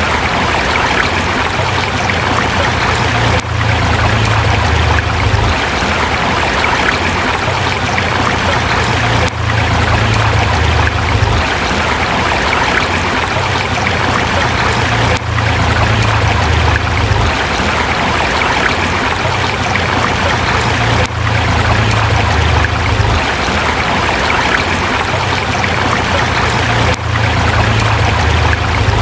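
Forest river water rushing and splashing over rocks in a steady, loud flow, with brief dips in level about every six seconds.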